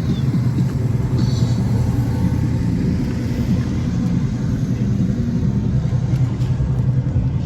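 A car engine running, a steady low rumble.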